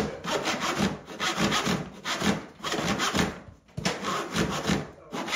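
Handsaw cutting through wood, back-and-forth strokes about two to three a second.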